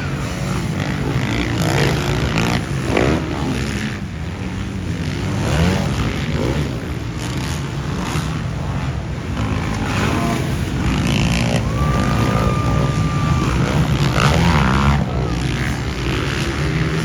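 Motocross dirt bikes racing on the track, several engines revving up and down.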